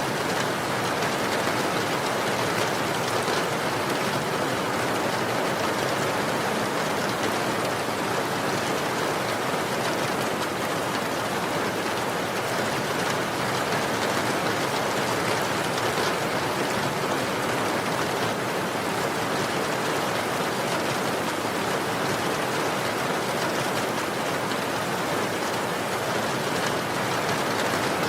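Steady rain falling on a surface, an even hiss with fine pattering of drops.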